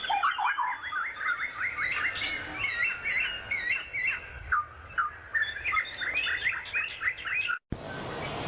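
Several songbirds chirping and singing in quick, overlapping phrases. Near the end the birdsong cuts off abruptly and a steady rushing noise takes over.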